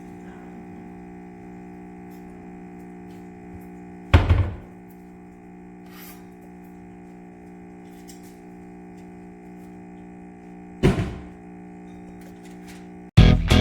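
Two heavy thunks about seven seconds apart over a steady low hum; guitar music starts near the end.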